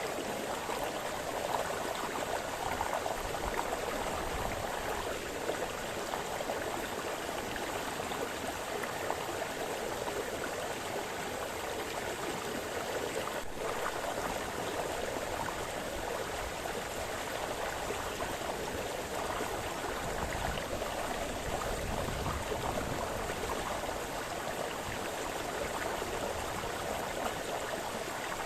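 Brook splashing and babbling over stones, a steady rush of running water.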